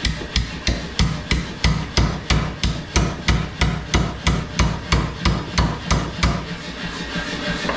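Mechanical power hammer striking a hot-cut tool in rapid, even blows, about three a second, cutting through hot steel. The blows stop about six seconds in, leaving the hammer's motor running.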